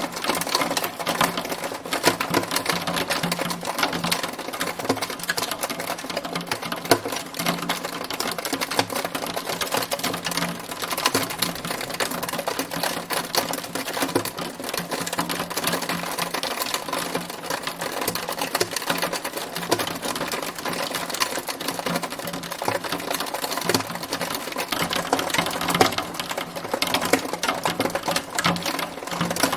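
Hailstones striking a hard surface in a dense, continuous patter of rapid clicks, with a low steady hum beneath.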